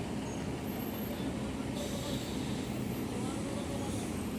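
Steady low rumble of heavy road vehicles, trucks and buses, running in stalled traffic.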